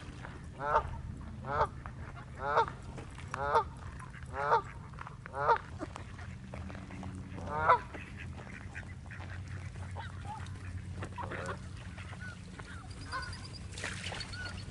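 A large waterbird giving a series of loud, harsh calls, about one a second six times, then one more call a couple of seconds later, followed by fainter calls.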